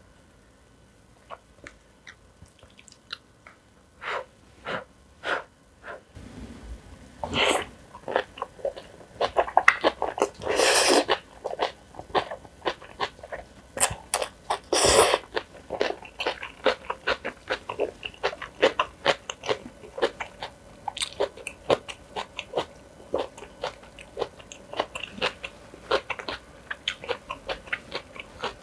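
Close-miked mukbang eating: chewing, crunching and wet mouth clicks as jjajang noodles and spicy kimchi are eaten. The sounds start about four seconds in, grow dense, and have two louder, longer bursts about ten and fifteen seconds in.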